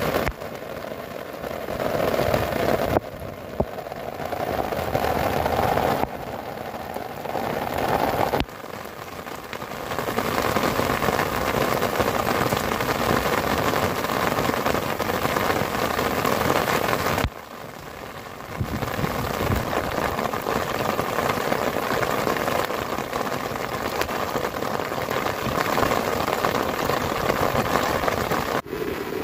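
Heavy rain falling steadily on grass and ground, a dense hiss whose loudness drops sharply and comes back several times.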